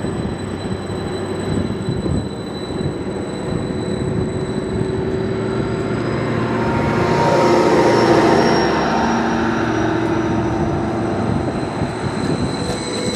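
Diesel multiple unit train running past, getting louder to a peak about eight seconds in and then easing off, with a high wheel squeal strongest near the peak.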